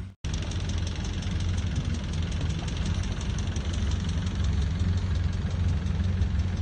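Long-tail boat's engine running steadily with a fast, even clatter.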